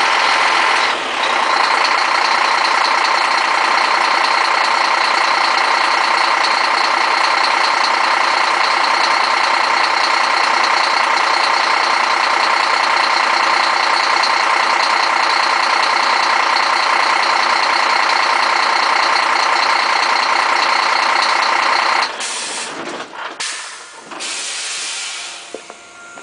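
Scania G420 truck's DC12 12-litre inline-six diesel running steadily. About four seconds before the end the engine sound drops away abruptly, leaving quieter irregular noises.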